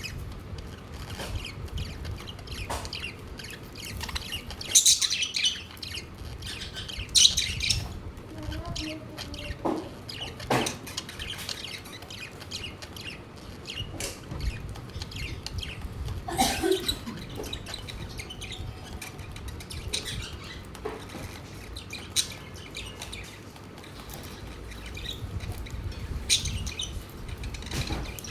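Pet budgerigars chirping in short, scattered bursts, with small clicks and taps among them; the loudest chirping comes about 5 and 7 seconds in and again around 16 seconds.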